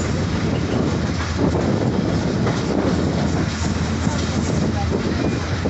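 Moving passenger train heard from aboard a coach: wheels running steadily on the rails, with occasional knocks.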